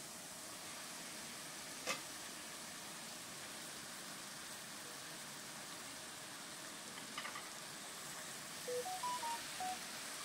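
Steady sizzle of an onion, ginger and garlic masala frying in a little oil in a kadai, with a sharp knock about two seconds in and a few light clicks later. Near the end comes a short run of electronic beeps at different pitches.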